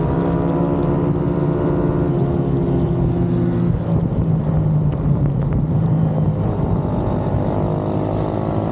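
Pit bike engines running at steady revs, several engine notes overlapping; one of the higher notes fades out about three and a half seconds in.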